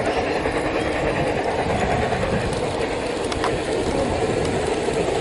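G-scale garden-railway model train running on outdoor track, a steady rumble of wheels and motor with a few faint clicks.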